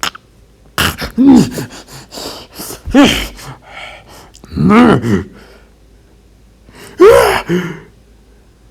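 A man's voice giving strained grunts and gasps, about four short loud cries that each rise and fall in pitch, with breathy sounds between them.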